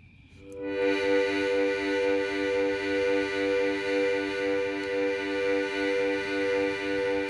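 A held chord on a musical instrument, starting about half a second in and sustained without a break, its tones pulsing slowly and evenly as they beat against each other.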